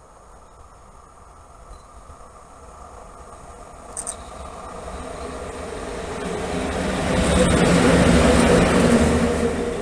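PKP Cargo ET22 six-axle electric locomotive running light past the track, its wheels running on the rails as it approaches, growing steadily louder to a peak near the end. A brief sharp click about four seconds in.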